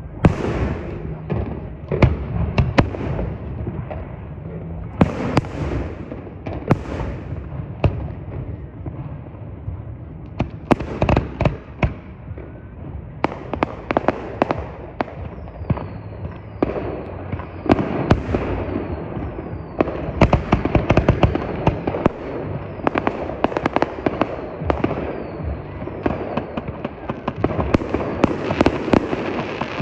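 Fireworks display: a continuous run of sharp bangs and crackles. In the middle stretch there is a series of short falling whistles, and the bursts grow denser toward the end.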